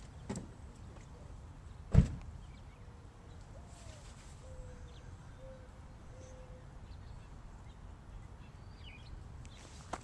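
A car door shutting: one heavy thud about two seconds in, after a lighter knock just before it, then a low steady background.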